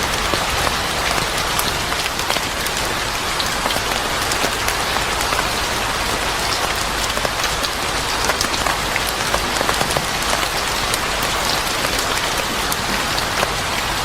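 Steady rain falling, a dense even hiss dotted with many small sharp ticks of drops.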